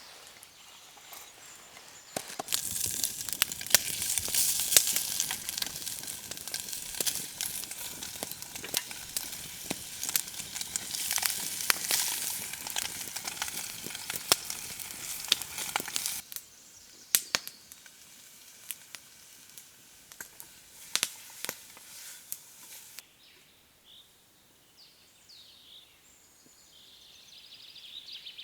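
Food sizzling over a campfire, a dense hiss with many sharp crackles. About sixteen seconds in it cuts off abruptly, leaving scattered crackles, then quiet with faint chirps near the end.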